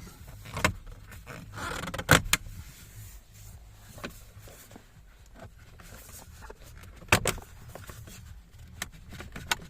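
Plastic dashboard trim of a Kia Soul being pulled and worked off its snap clips: a string of sharp plastic clicks and knocks, the loudest about two seconds and seven seconds in, with a short rustle of handling and a quick cluster of clicks near the end.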